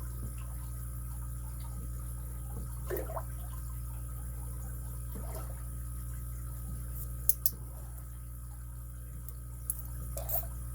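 Small metal padlock parts, pins and springs, being handled: a few soft scrapes and several sharp little clicks, two close together about seven seconds in and one more near the end, over a steady low hum.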